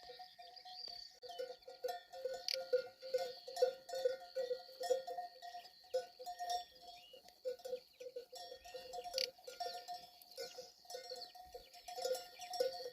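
Livestock bells clanking irregularly, many bells ringing at a few fixed pitches, as a bell-wearing flock or herd moves and grazes, with faint high chirps behind them.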